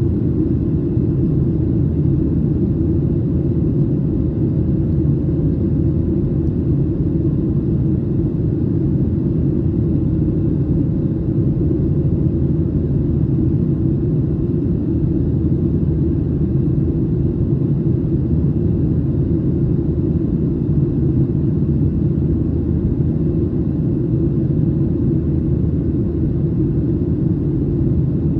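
Steady airliner cabin noise: a low, even rumble with a faint constant hum.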